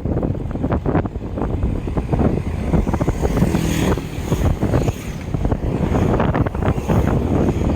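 Wind buffeting the microphone of a moving bicycle: a loud, uneven rumble with a brief swell of hiss about halfway through.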